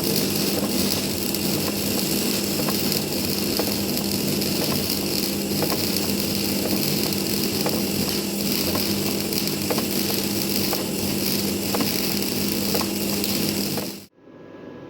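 Semi-automatic (MIG) welding arc burning in one continuous bead: a steady, loud frying crackle with a faint hum underneath, which starts abruptly and cuts off suddenly near the end.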